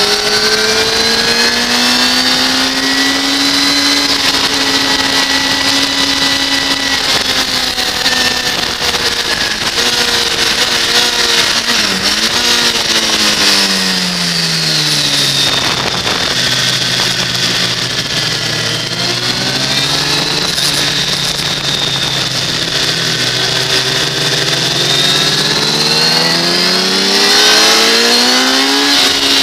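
2006 Kawasaki ZX-10R's inline-four engine heard from an onboard camera over steady wind rush. The engine holds a high steady note, drops away over a few seconds about halfway through as the bike slows, runs at a lower steady pitch, then climbs again near the end as it accelerates.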